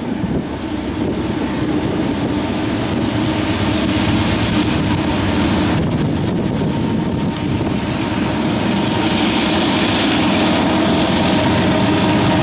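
Two Union Pacific diesel locomotives leading a coal train approach. The engine rumble and the wheels on the rails grow steadily louder as the train draws near.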